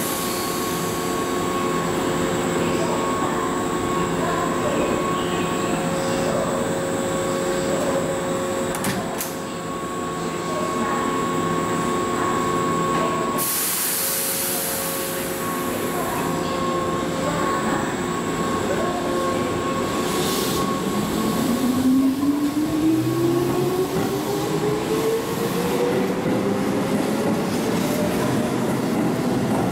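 Keihan 8000 series electric train standing at an underground platform, then pulling away. It stands with a steady hum; a burst of air hiss comes about halfway. In the last third the traction motors set up a whine that rises steadily in pitch as the train accelerates past.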